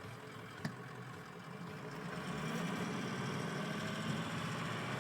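Ford 6.0 Power Stroke V8 turbo diesel heard from inside the cab, running at low speed with a steady low hum that grows louder about two seconds in. A single sharp click sounds near the start.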